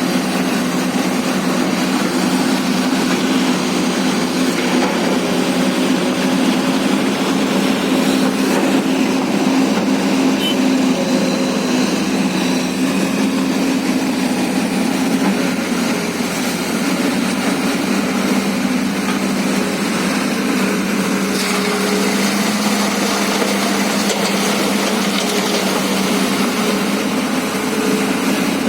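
Excavator's diesel engine running steadily under load, with a steady hum whose pitch drops a little about halfway through.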